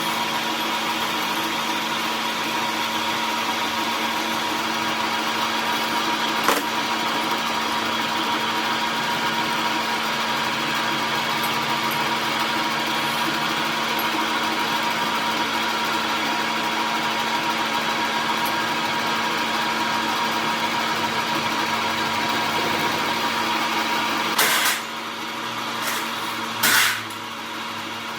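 A workshop machine running with a steady hum. There is a sharp click about six seconds in, and two short loud bursts near the end, after which the sound drops in level.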